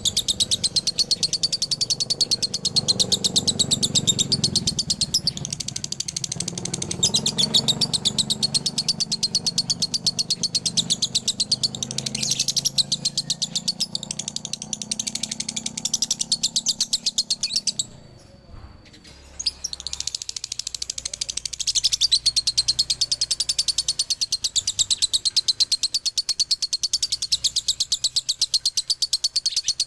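Male lovebird in a long, rapid, unbroken chatter: the 'ngekek' double-voiced song (dobelan). It stops abruptly about 18 seconds in and starts again about two seconds later.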